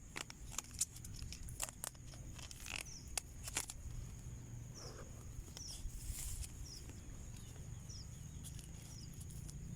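Outdoor ambience with a steady high insect drone and short falling chirps repeating about once a second, over scattered sharp clicks and rustles, mostly in the first half.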